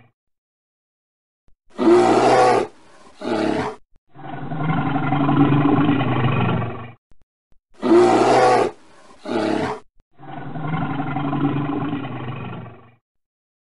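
A large animal's long, low call, about three seconds each, heard twice, each time after a pair of short, brighter sounds.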